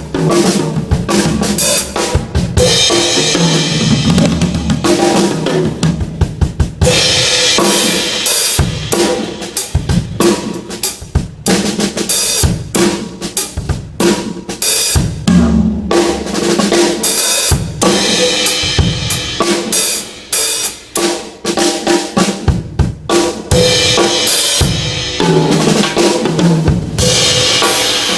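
A drum kit played continuously during a sound check: bass drum, snare and cymbals in a busy rhythm, with some pitched notes underneath.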